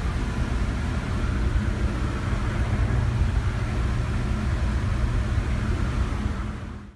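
A vehicle engine idling: a steady low rumble that cuts off suddenly near the end.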